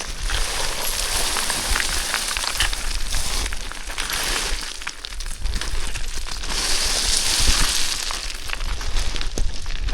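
Footsteps crunching and sliding on loose stones and scree on a steep mountain descent: a dense run of gravel crunches and small clicks, easing a little about five seconds in.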